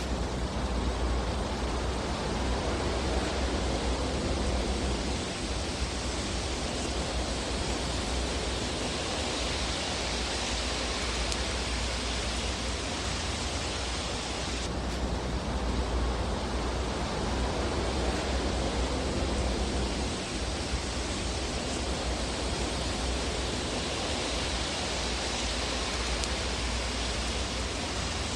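Looped fireplace ambience track: a steady rushing hiss over a deep rumble, without distinct crackles. It swells and eases slowly and repeats about every 15 seconds.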